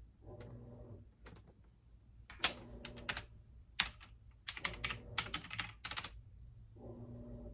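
Typing on a computer keyboard in quick bursts of keystrokes. Behind it, a washing machine hums in spells of about a second that start and stop.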